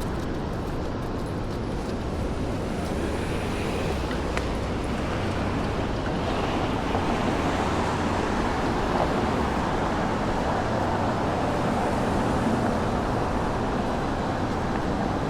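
City street traffic noise: a steady hum of passing cars that grows a little louder partway through, as if a vehicle goes by, then eases off.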